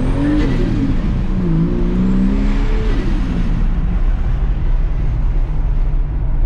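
Car engine accelerating through the gears: its pitch climbs, drops at a shift just after the start, climbs again, drops at another shift about three seconds in, then settles to a steady cruising note.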